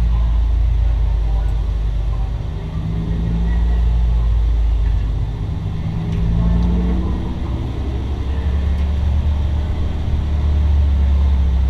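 Race car engine running loud and deep inside the stripped cabin, its level and pitch dropping and rising again every few seconds as the throttle comes off and back on around the oval.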